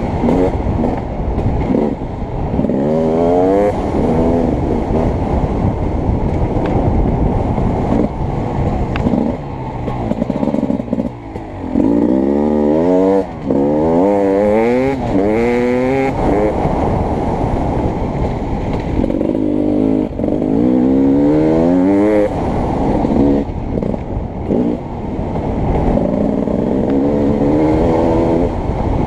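Beta 300RX two-stroke dirt bike engine under hard riding, its pitch climbing again and again as the throttle is opened and dropping back between pulls.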